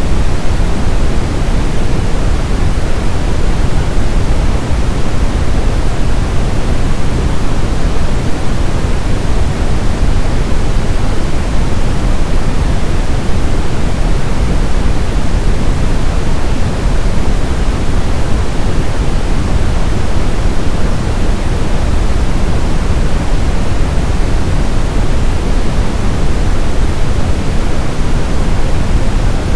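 Brown noise: a steady, loud, deep hiss of synthetic noise, strongest in the low rumble and fading toward the top, without any change.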